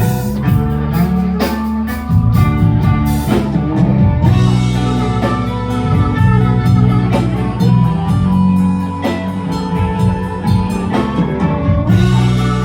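Live blues band playing an instrumental passage: guitar lines over bass and drums, with steady cymbal strokes.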